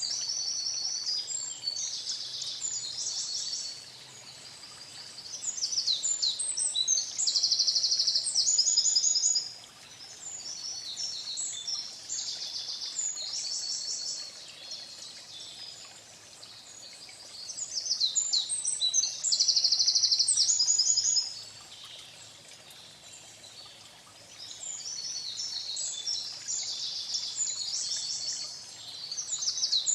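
A songbird singing: bouts of quick, high-pitched notes and fast trills, each a few seconds long, with short pauses between them.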